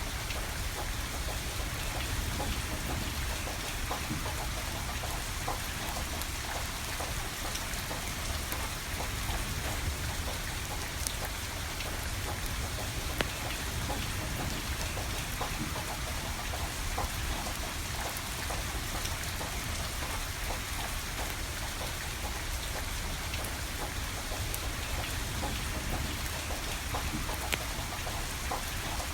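Steady rain falling, with a wood fire crackling and giving off occasional sharp pops.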